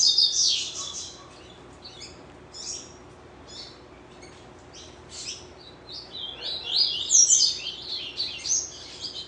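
Papa-capim (yellow-bellied seedeater) singing in quick, high twittering phrases. The song is loud at the start, turns sparse for a few seconds, then picks up again into a dense run about six seconds in.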